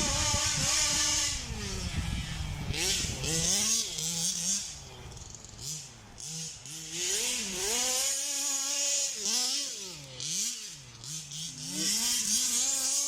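Rovan Baja 1/5-scale RC buggy's Zenoah G320 two-stroke petrol engine with a big-bore exhaust, revving up and falling back again and again as it is driven. It dips quieter about halfway through, then comes back loud.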